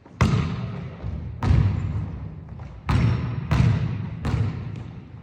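A basketball bouncing on a hardwood gym floor, five slow, uneven bounces, each ringing out in the echo of the large hall.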